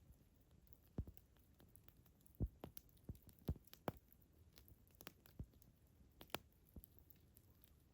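Campfire wood crackling: irregular sharp pops and snaps, several a second, over a faint low hiss. The loudest snaps come about a second in and around two and a half and three and a half seconds in.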